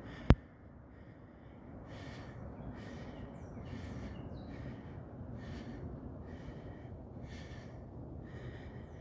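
Footsteps crunching along a trail at a steady walking pace, about three steps every two seconds. There is a sharp click just after the start and a few short, high falling chirps.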